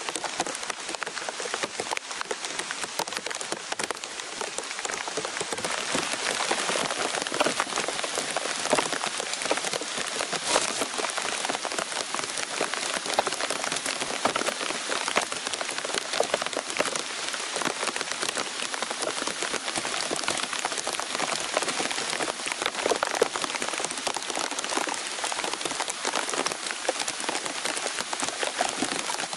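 Heavy rain falling steadily, thick drops pattering on a plastic tarp and wet foliage, growing a little heavier about six seconds in.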